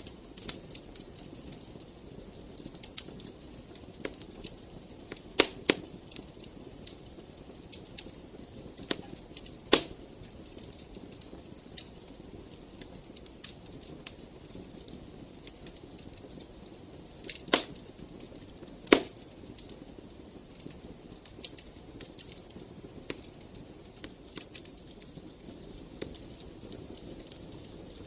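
Wood fire crackling in a fireplace: a steady low rush of burning with frequent small crackles and snaps, and a few louder pops of the wood, about four of them spread through.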